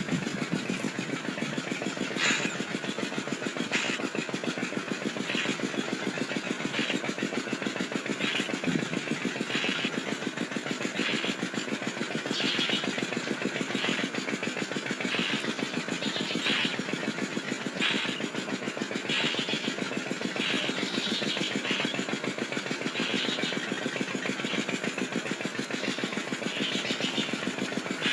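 A small engine running steadily with a fast, even pulse. Short high-pitched sounds come on top of it about once a second.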